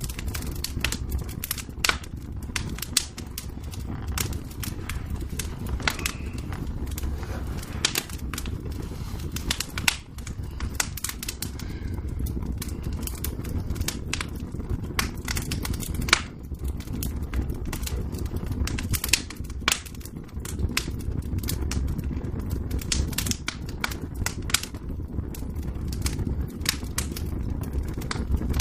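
Wood fire crackling and popping in irregular sharp snaps over a steady low rumble.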